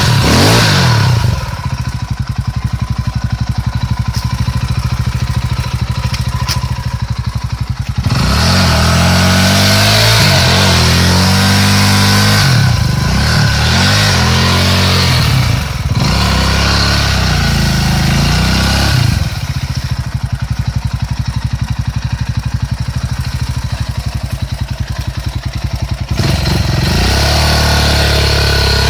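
KTM dirt bike engine idling and being revved hard: it idles for several seconds, is revved up and down repeatedly for about ten seconds, drops back to idle, then is revved again near the end.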